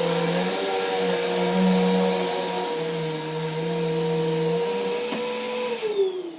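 Vacuum cleaner motor running with a steady high whine. About six seconds in it is switched off, and its pitch falls as the motor winds down.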